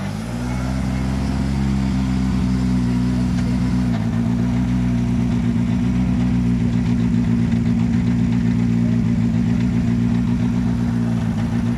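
Škoda Fabia Rally2 car's turbocharged four-cylinder engine idling steadily close by, its note shifting slightly about four seconds in.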